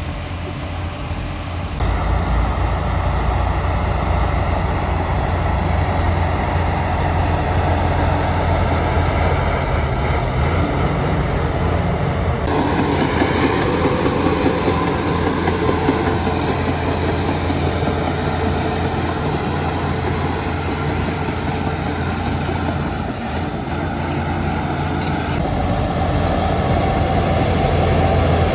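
Heavy diesel earthmoving machinery running steadily under load, a low engine drone with a broad mechanical rumble over it. The sound shifts abruptly about two seconds in and again about halfway through.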